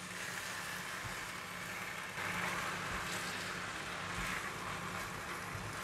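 Tofu skin, black fungus and ginger stir-frying in garlic oil in a stainless-steel wok, turned with a silicone spatula: a steady sizzle that grows a little louder about two seconds in.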